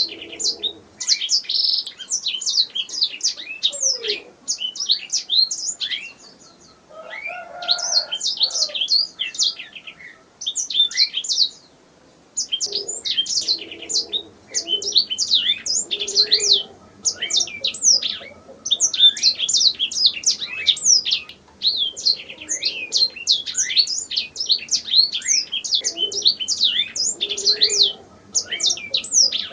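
Domestic canary singing: long runs of fast, high chirps and trills, broken a few times by brief pauses.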